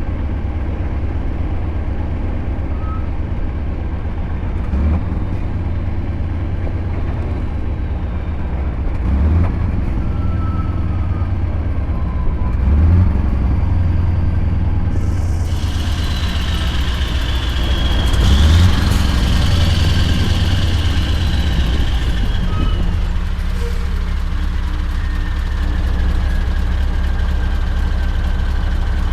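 Scania R580 V8 diesel with an 8-inch straight pipe running steadily under way, swelling briefly four times. About halfway through, a hiss joins in, with a whistle that rises and then falls.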